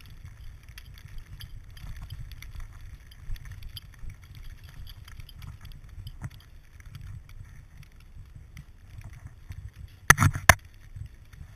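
Muffled low rumbling and rustling from a GoPro in its waterproof housing while it is jostled, with scattered small clicks. About ten seconds in there is a short, loud clatter of several knocks.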